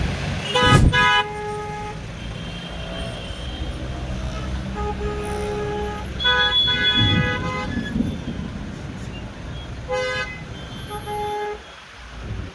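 Vehicle horns honking several times in short blasts, over a steady rumble of road traffic.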